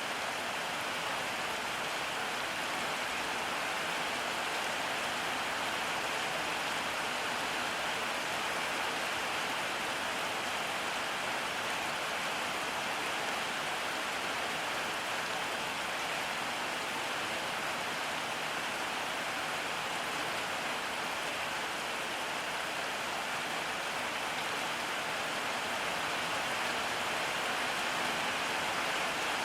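Steady rain falling on surfaces, an even hiss that does not change.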